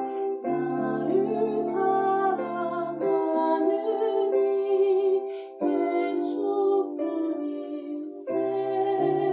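A slow hymn sung over sustained instrumental accompaniment, the notes held and changing in steps.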